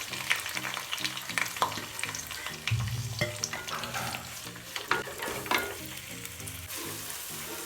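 Sliced onion sizzling as it fries in hot oil in a pan, being stirred, with scattered clicks and scrapes of the stirring utensil against the pan.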